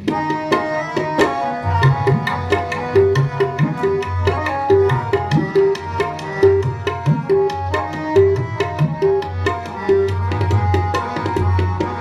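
Tabla playing a busy, steady rhythm with a deep bass drum boom under held melodic notes, the instrumental interlude of a Sikh kirtan shabad between sung lines.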